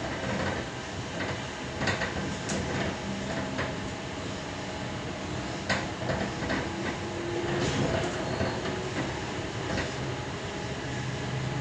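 Inside a Tangara electric train running along the line: a steady rumble with a faint motor hum, broken by several sharp clicks and knocks.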